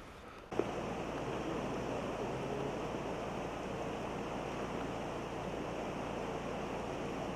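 Steady rushing of flowing river water, starting suddenly about half a second in.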